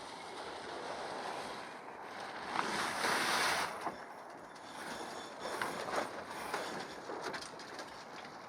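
Water rushing along a sailboat's hull with wind on the microphone, a louder rush of spray or wave for about a second near the middle, followed by a scatter of sharp clicks and knocks.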